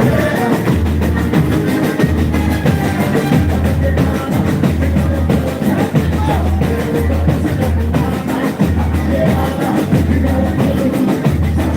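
Loud live boi-bumbá toada music: an amplified band with a pulsing bass line and heavy, dense drumming.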